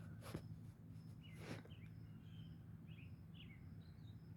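Faint birds chirping, short falling notes repeating about every half second, over a low steady hum. Two brief rustles about a quarter second and a second and a half in.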